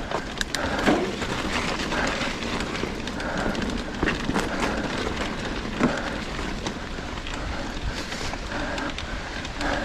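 Trek Fuel EX 7 mountain bike climbing a wet dirt trail: steady tyre and drivetrain noise with scattered clicks and knocks from the bike over the ground, mixed with wind on the helmet-camera microphone.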